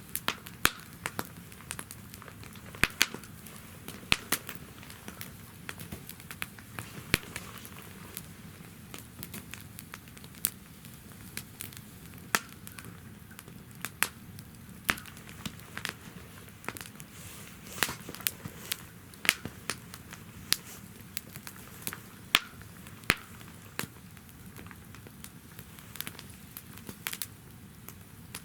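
Wood fire crackling and popping in a fire stand, with irregular sharp snaps over a low steady hiss.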